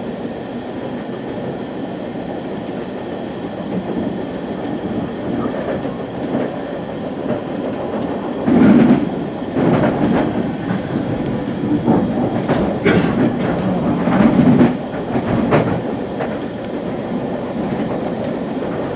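Ride noise inside a West Coast Express commuter train car: a steady rumble of wheels on track, with irregular clatters and knocks that grow louder and busier about halfway through.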